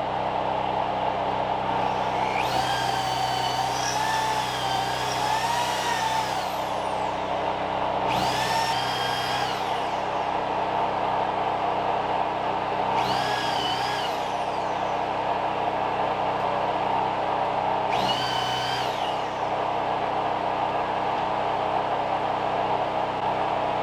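A power tool runs in four short bursts, each a whining, wavering pitch that trails off as it stops, over a steady mechanical hum.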